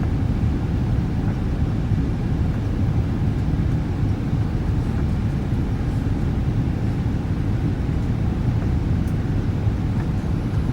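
Boeing 787-8 airliner cabin noise: a steady, even roar of the Rolls-Royce Trent 1000 engines and airflow, heard from inside the cabin.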